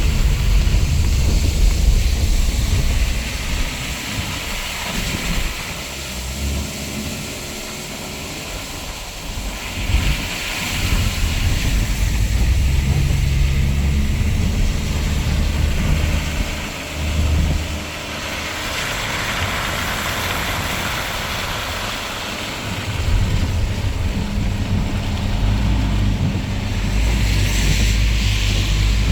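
Inside a moving car on rain-flooded streets: low engine and road rumble with the hiss of tyres and spray on wet tarmac, swelling louder several times.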